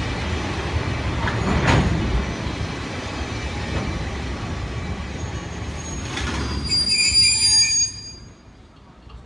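Freight train of wagons rolling slowly over the rails with a low rumble and a couple of clunks, then a high metallic squeal from the wheels and brakes about seven seconds in that cuts off sharply as the train slows to a halt.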